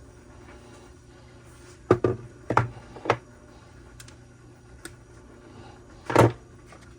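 Small tools and trimmer parts being handled on a workbench: four quick knocks and clatters about two to three seconds in and a louder knock near the end, over a steady low hum.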